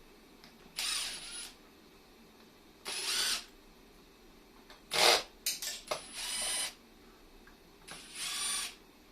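A cordless drill-driver whirring in five short bursts of under a second each, with a thin high whine in each burst. The loudest burst comes about five seconds in, with a few sharp clicks around it.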